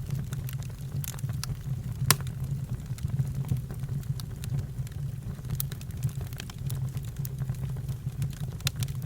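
Campfire crackling: a scatter of small sharp pops, one much louder snap about two seconds in, over a steady low rumble.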